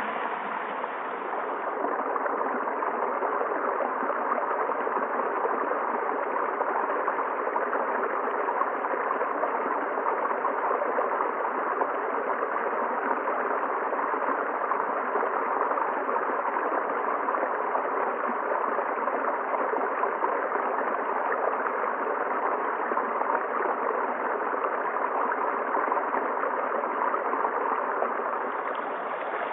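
Water flowing down a valley stream, a steady rushing with no breaks.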